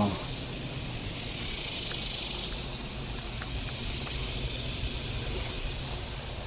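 Steady hiss of a large, exposed honeybee colony heard close up, with a few faint ticks.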